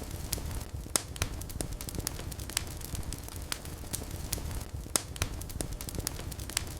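Wood fire burning in a fireplace: a low steady rumble of the flames with irregular sharp crackles and pops from the burning logs, two of them louder about one second and five seconds in.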